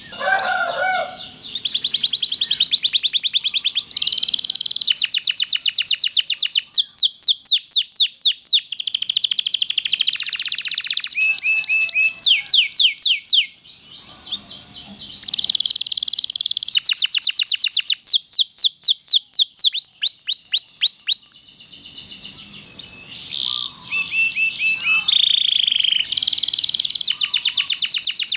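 Domestic canary singing a long, rapid song: runs of fast repeated down-slurred notes, each run lasting a second or two before switching to a new run, with a couple of short breaks.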